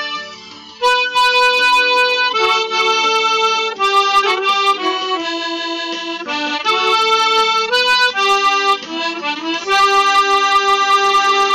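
Harmonica playing a melody of held notes. The sound drops briefly within the first second, then the tune resumes.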